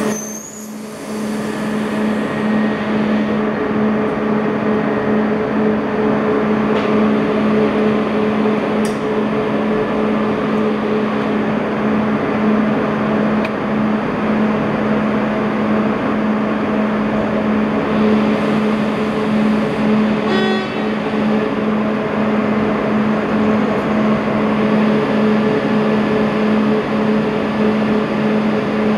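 Renfe passenger train standing at the platform, running with a steady droning hum. A brief run of rapid clicks sounds about twenty seconds in.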